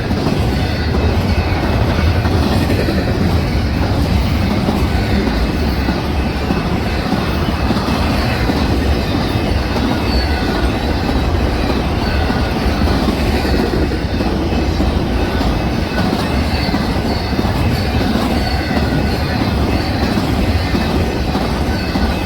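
Railroad cars rolling past at steady speed: a continuous loud rumble of steel wheels on rail, with faint, brief high-pitched wheel squeals.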